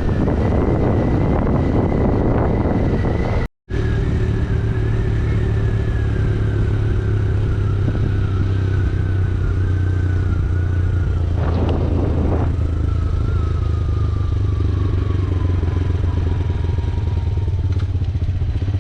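Yamaha YBR125G motorcycle's single-cylinder engine running steadily while riding, with a thin high whine that slowly falls in pitch. The sound cuts out briefly about three and a half seconds in, and there is a short rush of noise around twelve seconds.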